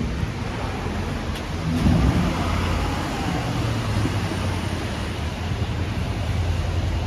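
City street traffic: a steady low engine hum of a nearby vehicle over a wash of road noise, swelling about two seconds in.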